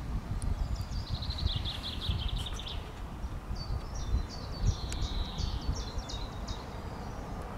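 A small bird singing two phrases of rapid, high notes, the first a quick trill that drifts lower and the second a choppier run, over a low rumble of wind on the microphone.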